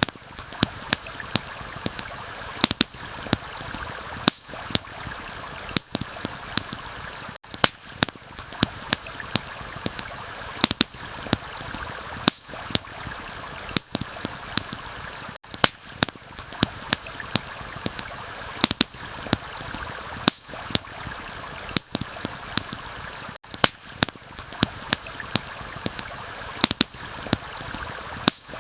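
A campfire crackling, with sharp irregular pops and snaps, over the steady rush of a flowing stream.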